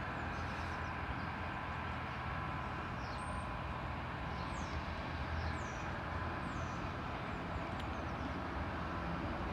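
Freightliner Class 66 diesel locomotive, its two-stroke V12 engine running at full power as it hauls a freight train through, a steady low drone.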